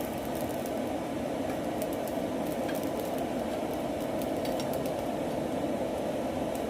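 Charcoal forge running with its air blower on: a steady rushing of forced air through the fire, with faint crackling from the burning charcoal.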